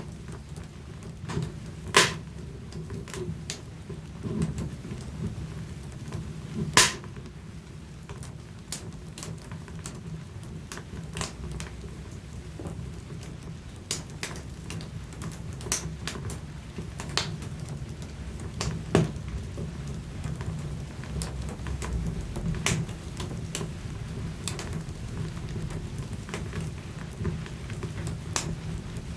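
Wood fire burning in a fireplace: a steady low rumble of flames with scattered sharp crackles and pops, two loud pops about two and seven seconds in.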